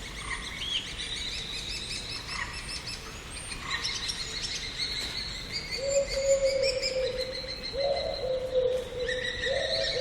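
Garden birdsong: many small birds chirping and trilling together. From about six seconds in, a low call that steps up in pitch comes again and again, about every one and a half seconds.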